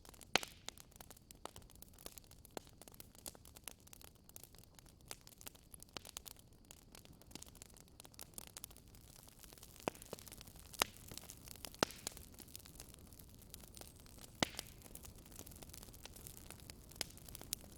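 Wood fire in a fireplace crackling: irregular sharp pops and snaps over a faint steady hiss, with a few louder pops in the second half.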